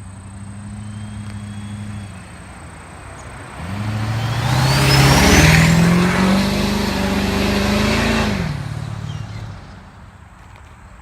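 Twin-turbo 6.6 L V8 Duramax diesel revved up from idle, held high for about four seconds, then dropping back to idle. A whistle climbs in pitch as it spools up.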